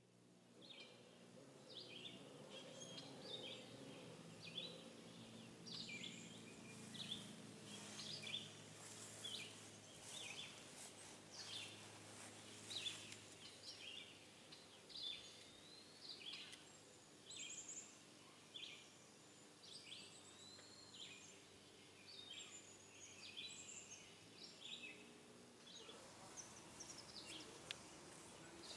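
Faint outdoor ambience of songbirds chirping and calling, many short repeated calls, over a low steady hum that stops near the end.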